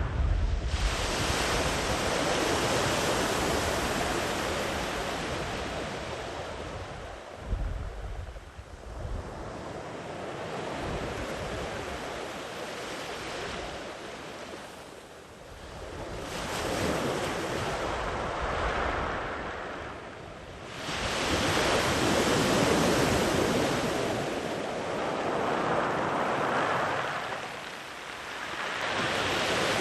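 Sea waves breaking and washing up a sandy beach, the surf swelling and ebbing in several long surges, with gusts of wind buffeting the microphone now and then.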